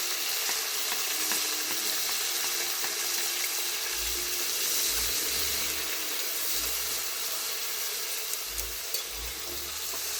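Chicken and seasoning frying in oil in a pot: a steady sizzle. A few dull low thuds come in the middle.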